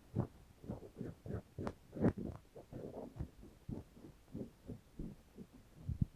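Close-miked ear-cleaning sounds: soft, irregular rubbing and scratching taps against the microphone's ear, several a second.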